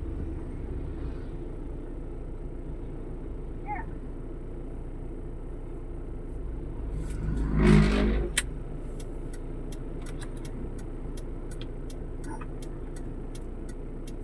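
Steady low rumble of road traffic, with one vehicle swelling loud as it passes about eight seconds in. A run of sharp, evenly spaced clicks follows, a few a second, until the end.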